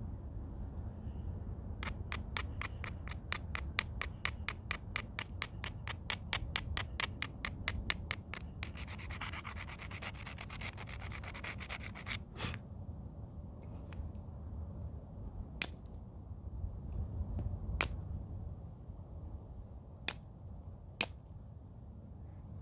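Flintknapping: stone on stone being worked, first with a fast run of sharp scraping strokes, about six a second, the sort used to abrade an edge, then a few seconds of rough scraping. After that come five single sharp clicks of hard blows on the stone.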